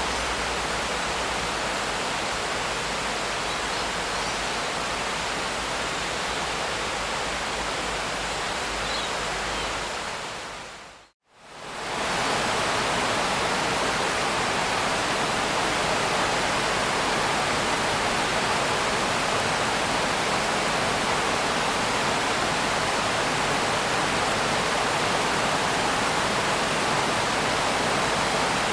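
Steady, even hiss of heavy rain. About eleven seconds in it fades out to near silence for a moment and fades back in, as at the seam of a looped recording.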